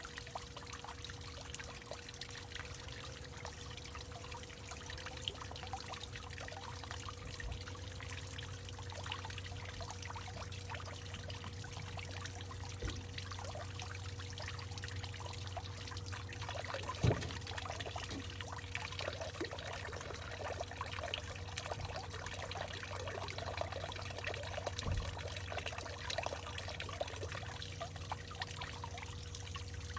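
Water trickling and dripping in a hollowed-out tree, a steady pour broken by many small irregular drips, with one sharper, louder drop or knock a little past halfway.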